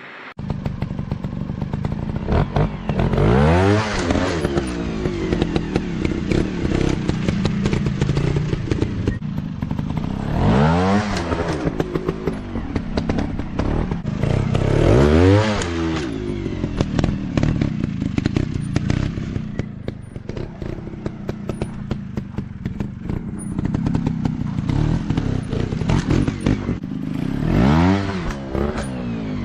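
Dirt bike engine running, revving up and dropping back four times with sharp rises and falls in pitch.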